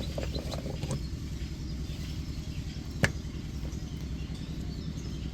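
An engine running steadily, with a low rumble, and one sharp click about three seconds in.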